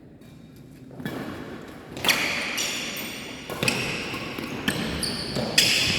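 Badminton being played on an indoor hall court: sharp racket hits on the shuttlecock, about four starting around two seconds in, mixed with high-pitched squeaks and hall echo.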